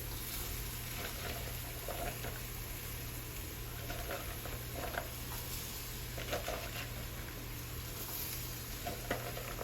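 Chopped vegetables (green peppers, onions, celery and carrots) sizzling steadily in a hot soup pot, over a constant low hum, with a few faint ticks.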